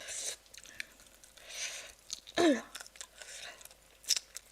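A person chewing and biting food close to the microphone: irregular crunches and wet mouth clicks, with a brief hum of the voice about halfway through.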